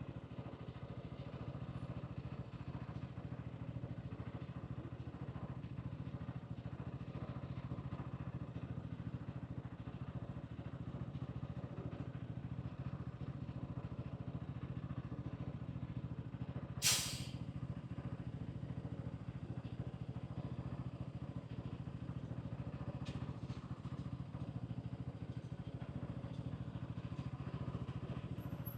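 Hansom Bike Benet 125cc motorcycle engine running steadily under riding, with one brief sharp noise a little past halfway.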